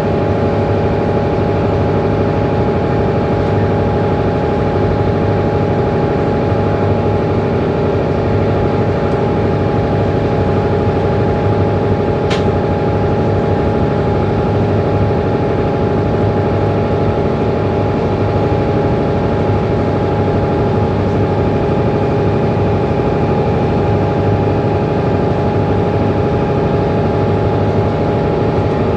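Mercedes-Benz Citaro C2 city bus engine running steadily at an even pitch, with one brief click about twelve seconds in.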